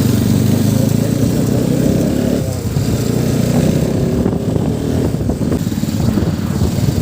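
Motorcycle engine running steadily while riding, easing off briefly about two and a half seconds in.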